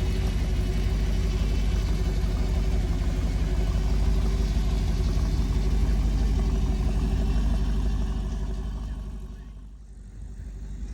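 A vehicle's engine running close by with a deep, pulsing rumble, then fading away as it pulls off about eight seconds in.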